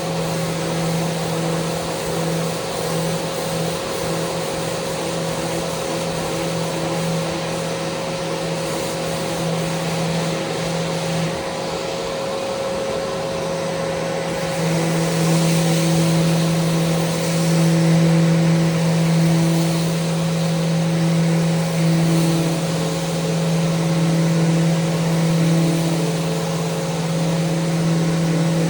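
Electric power sander running steadily with a constant motor hum over a sanding hiss. It grows louder and rougher from about halfway through.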